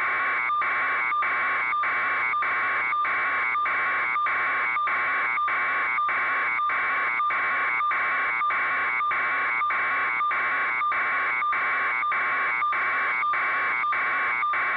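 Electronic alarm buzzer sounding steadily, a harsh buzzing tone pulsing about three times a second without change.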